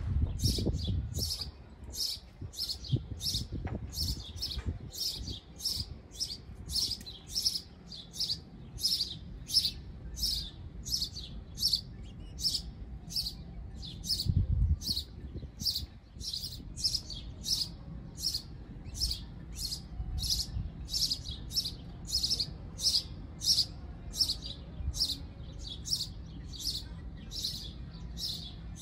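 A bird chirping over and over, about two short, high chirps a second in a steady, even rhythm. Low rumble and a few dull thumps underneath.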